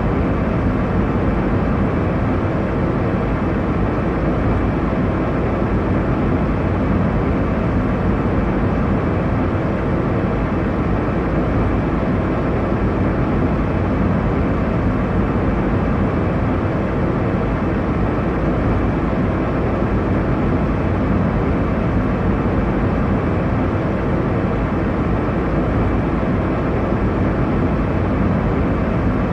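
Airliner cabin noise in flight: a steady, unchanging low roar of engines and airflow over the fuselage.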